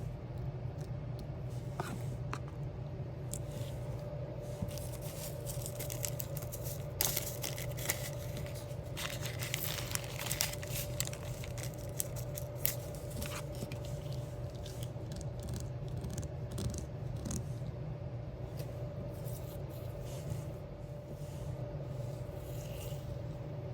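Diamond-painting sticker materials handled at close range: small clicks and taps, with a busier stretch of scraping and crinkling in the middle, over a steady low hum.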